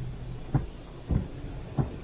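Car driving on a highway in the rain: a steady low engine and road hum with a short knock about every 0.6 seconds, three times.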